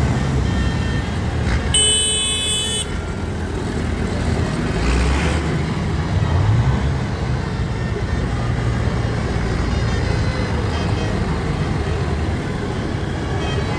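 Tractor engines rumbling steadily as they drive past, with a horn blast lasting about a second near two seconds in.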